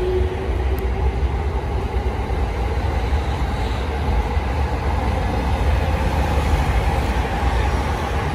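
Electric commuter train pulling out of the station and gathering speed past the platform: a steady low rumble of the cars rolling by, with a motor whine rising in pitch in the first second.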